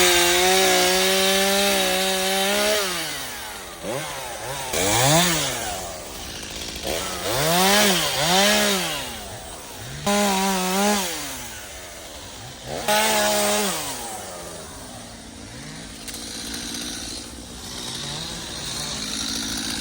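Stihl chainsaw's two-stroke engine held at full throttle for about three seconds, then blipped up and down in five short bursts, settling to a steady idle for the last few seconds.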